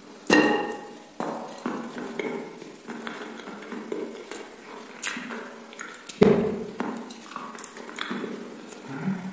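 Close-miked eating sounds: wet chewing with many small mouth smacks and clicks, and two louder bursts, one just after the start and one about six seconds in.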